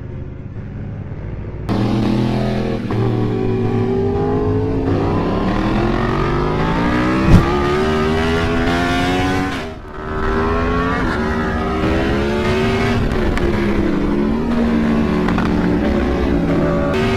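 Motorcycle engine under hard acceleration, its pitch climbing and dropping again and again as it runs through the gears, with a brief lull about halfway through. A single sharp knock about seven seconds in.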